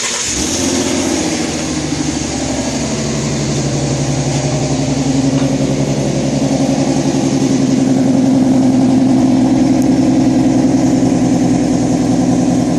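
A 2011 Ford Mustang's 3.7 L Cyclone V6, breathing through BBK shorty headers, an off-road X-pipe and stock mufflers, idling steadily just after a cold start. The idle is high, as is usual for a cold engine, and it grows a little louder over the first few seconds.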